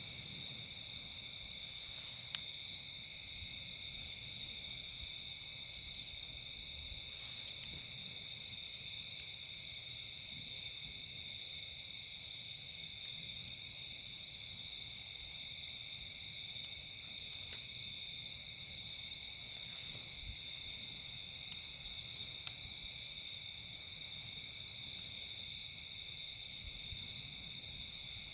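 Steady chorus of insects chirring, with a few sharp pops from a crackling campfire, the loudest about two seconds in.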